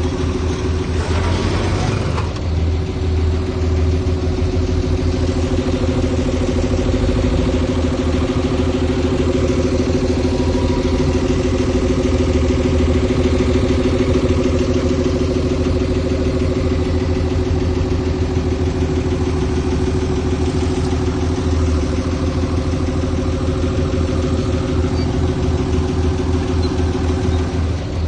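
Heavy diesel engine of earthmoving machinery running steadily, with a short burst of hissing noise about a second in.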